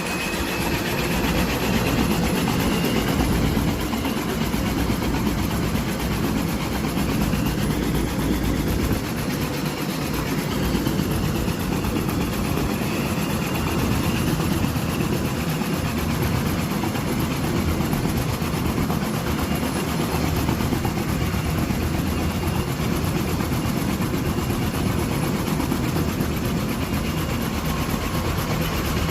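Kaman K-MAX helicopter running steadily, its intermeshing rotors and turbine engine making a dense, continuous noise with a faint wavering whine above it.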